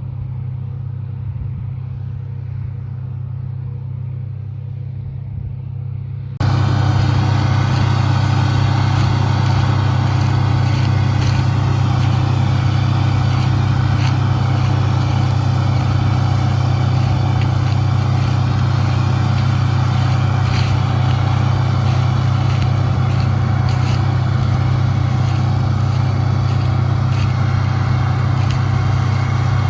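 Farm machine's engine running steadily with a low drone. About six seconds in, the sound abruptly turns louder and fuller, with added mechanical rattle and clatter.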